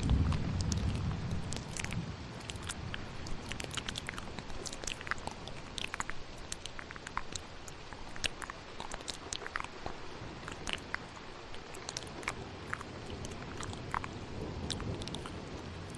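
Close-miked ASMR mouth sounds, many small quick clicks and smacks, layered over steady rain. A low thunder rumble sounds in the first two seconds or so.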